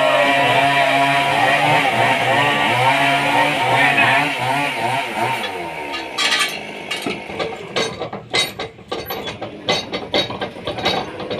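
Sawmill machine motor running steadily, then winding down and stopping about five seconds in, followed by a run of irregular knocks and clatter.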